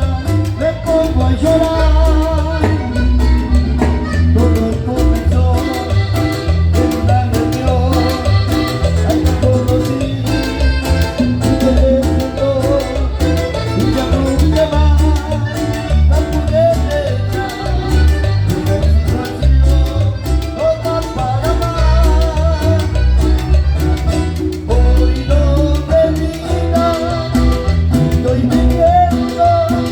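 A live Latin dance band, a quintet, playing a mostly instrumental passage over a steady, thumping bass beat, with a wavering melody line on top.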